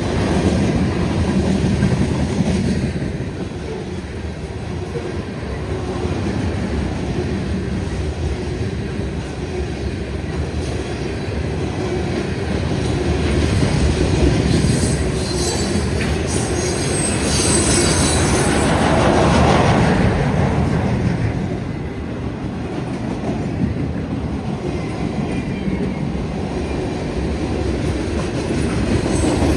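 CSX freight train rolling past: a steady rumble of steel wheels on the rails with clickety-clack over the rail joints, and a high-pitched wheel squeal that swells through the middle and fades again.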